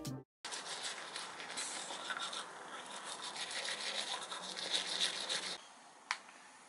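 Scratchy rubbing noise for about five seconds, then a single click.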